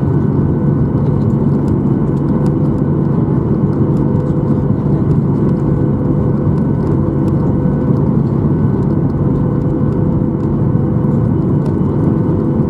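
Steady cabin hum inside a Boeing 737-800 on the ground, its engines and air systems running, with a low drone and several steady humming tones. Faint light ticks and rattles sound now and then.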